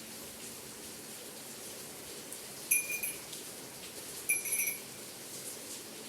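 Small bells of a bell tower struck by the rain, giving two short, high clinking rings about a second and a half apart over the steady hiss of rain.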